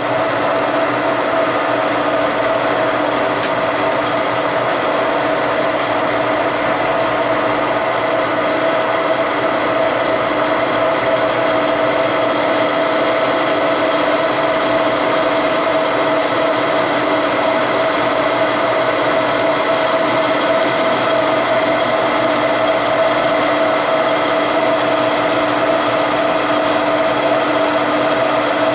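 Metal lathe running steadily under power during a light facing cut, taking the part to length. A steady whine of several fixed pitches sits over the running noise.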